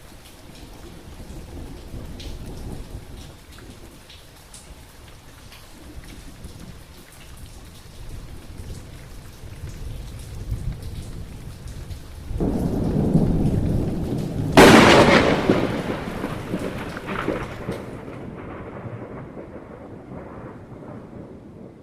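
Thunderstorm: steady rain with low rolling thunder. About twelve seconds in a rumble builds into a sharp, loud thunderclap, which then rolls away.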